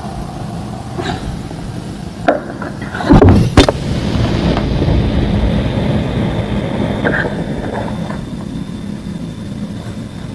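Thick slabs of green homemade gym chalk being crushed by hand, with a few faint crackles and a cluster of loud, sharp crunches about three seconds in. Under it runs a steady low rumble that swells and slowly fades.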